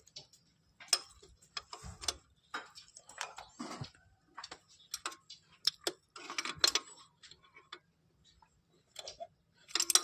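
Irregular small metallic clicks, clinks and short scrapes of hand tools and loose parts being worked on a car carburetor, in no steady rhythm.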